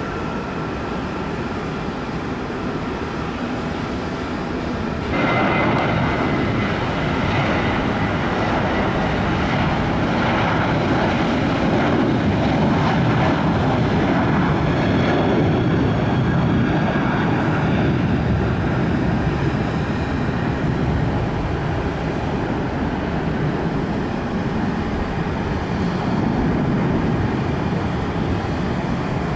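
Airliner engines running, a steady rushing rumble that gets abruptly louder about five seconds in, then slowly eases off.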